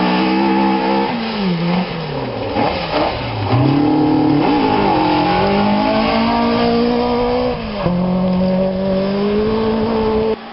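Two-wheel-drive rally car's engine driven hard, its revs dropping sharply twice in the first few seconds and then climbing again, with another shift down in pitch about eight seconds in before it rises once more. The sound cuts off abruptly near the end.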